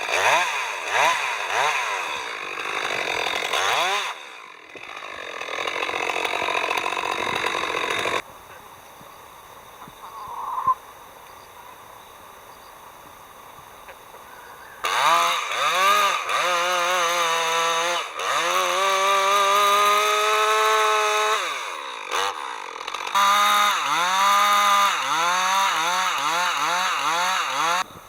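Chainsaw milling a log with an Alaskan-type chainsaw mill: the saw runs hard, its speed rising and falling. It cuts off abruptly about eight seconds in, leaving a quieter stretch of about seven seconds, then runs again from about fifteen seconds, revving up and down and holding steady under load for a few seconds.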